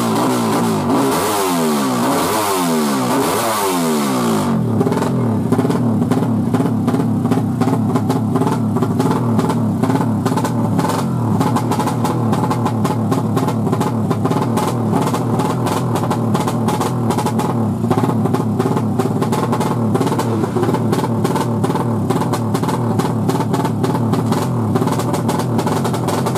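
Yamaha MX King motorcycle's single-cylinder engine, bored out to about 200cc, revved up and down about three times in the first four seconds, then running steadily, over background music with drums.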